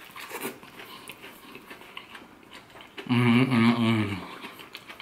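A person chewing a mouthful of crispy fried chicken, with faint crunching and wet mouth sounds. About three seconds in comes a loud, wavering hummed "mmm" of approval lasting about a second.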